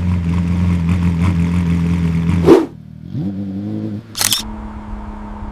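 Lamborghini Aventador V12 engine running at a steady raised idle, cut by a sharp crack about two and a half seconds in. Then a short blip of the throttle, a second sharp crack, and the engine settles to a lower, quieter idle.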